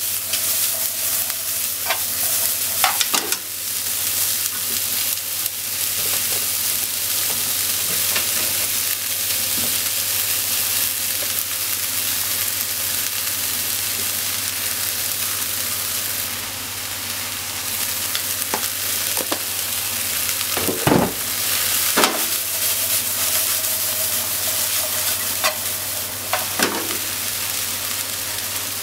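Chopped leeks sizzling in a hot frying pan as they are stir-fried, a steady hiss with occasional sharp clacks of the pan and stirring utensils; the loudest clacks come in a close pair about three quarters of the way through.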